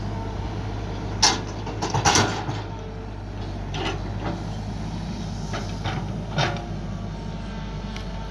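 Mini excavator's engine running steadily, with a series of short knocks and clunks from the digging. The sharpest comes a little over a second in, followed by a cluster and several more spread through.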